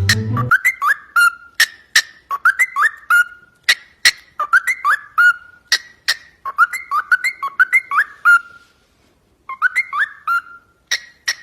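A parrot whistling repeated phrases of short rising notes, with sharp clicks between them and a brief pause about nine seconds in.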